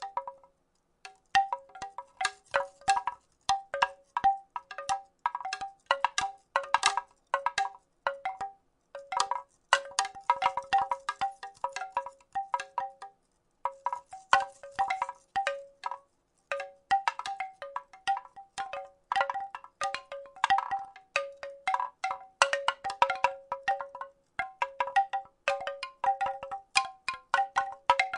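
Wooden rattle shaken in irregular bursts: rapid clacks of wood on wood, each with a short ringing note at the same two pitches, with brief pauses between runs.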